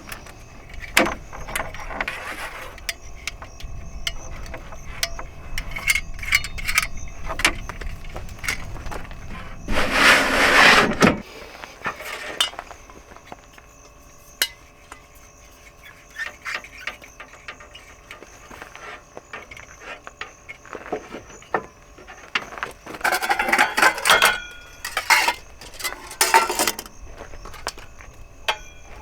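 Objects being handled: scattered clicks, knocks and light clinks, with a loud rustling burst lasting about a second roughly ten seconds in, and a few ringing clinks near the end.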